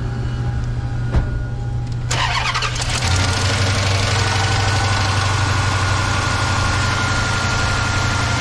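5.7-litre V8 engine being started: a click, a short crank about two seconds in, then it catches and runs steadily. The engine is one with a knocking noise, about to get a top overhaul.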